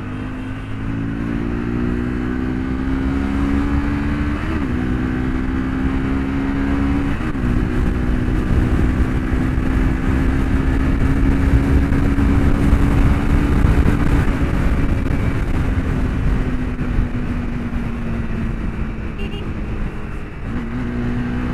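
Motorcycle engine pulling through the gears: its note climbs and drops sharply twice in the first seven seconds or so as the rider shifts up, then holds a steady cruise. Wind and road noise grow louder towards the middle. Near the end the engine note dips and picks up again.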